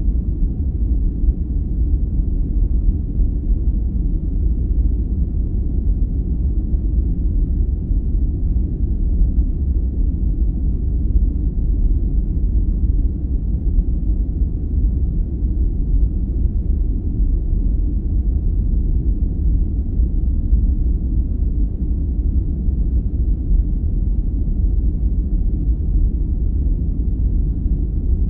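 Steady, deep sleep-noise track: an even, low, muffled rush with almost no high hiss, unchanging throughout.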